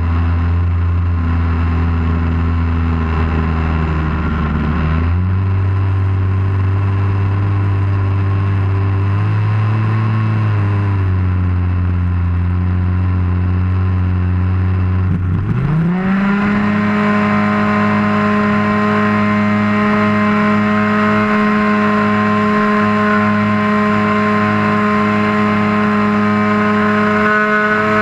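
Model airplane engine heard from a camera on the wing, running at low throttle with a couple of small shifts in pitch, then at about fifteen seconds throttling up quickly to a much higher, steady pitch and holding there.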